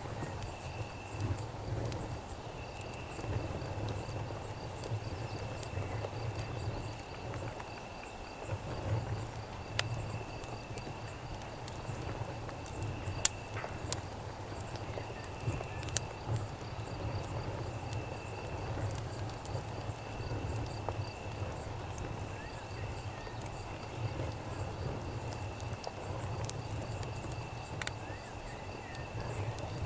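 Crickets chirping in a steady, pulsing high trill over a campfire crackling, with sharp pops now and then, loudest about 13 and 16 seconds in. A low, steady rumble runs underneath.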